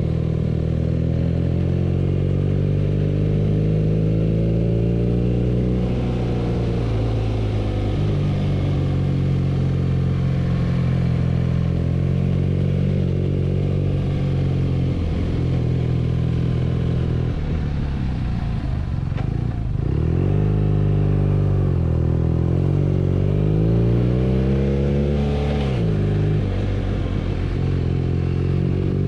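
BMW R nineT's air/oil-cooled boxer twin engine running under way, its pitch mostly steady, dropping low about two-thirds in, then climbing and falling twice before a sharp drop in revs near the end as the rider rolls off and shifts.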